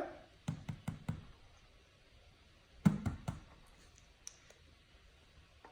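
Light clicks and taps from handling a small plastic food-colouring bottle at a table. There are a few soft clicks about half a second in, then a sharper knock about three seconds in followed by a few more clicks.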